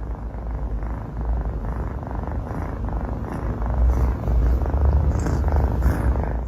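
A cat purring steadily, growing louder in the second half and cutting off abruptly at the end.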